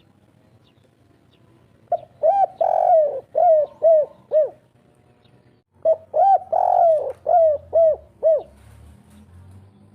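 Spotted dove (derkuku) cooing: two phrases about a second apart, each a quick run of short coos with one longer drawn-out note near its start.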